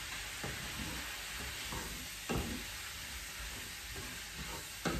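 Diced chicken, onions and garlic sizzling steadily as they fry in olive oil in a frying pan. A few scrapes and knocks of a utensil against the pan come as the pieces are stirred.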